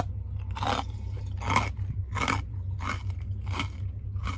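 Close-up chewing of crunchy fried snack sticks: six crunches, a little over one a second, over a steady low hum.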